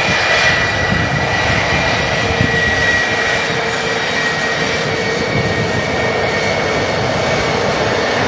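Sukhoi Su-57 fighter jet's engines running steadily: a continuous loud rush with a steady high tone through it.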